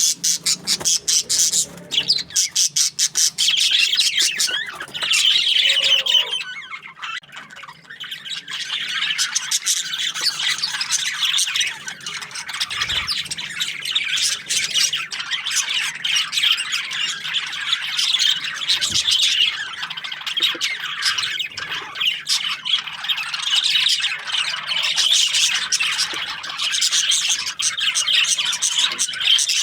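A flock of budgerigars chirping and chattering in a dense, continuous stream of quick calls, easing off briefly about seven seconds in.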